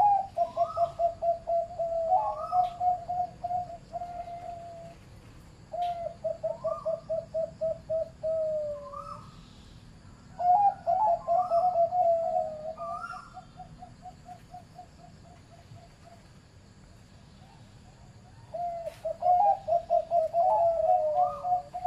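Zebra dove (Java dove) singing its rapid, staccato cooing trill in four bouts with short pauses between, each bout set off by a few higher rising notes. This is the middle-pitched voice type bred for dove song contests.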